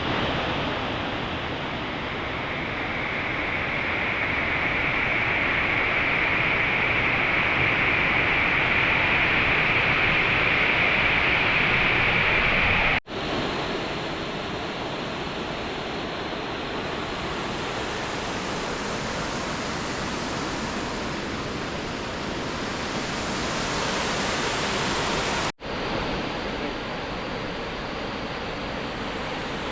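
Steady rush of a waterfall's falling water, swelling louder through the first part; the sound breaks off abruptly twice, about halfway through and again a few seconds before the end, each time resuming at a slightly different level.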